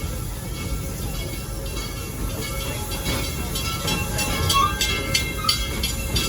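Serengeti Express narrow-gauge park train running along the track: a steady low rumble of the moving cars, with a run of irregular clicks and rattles joining in from about halfway through.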